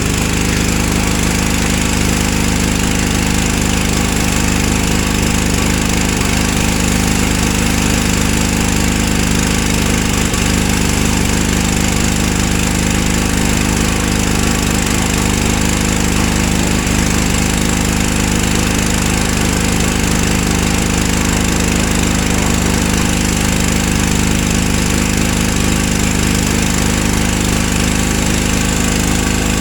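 Pressure washer's small gas engine running steadily, with the hiss of the water spray over it.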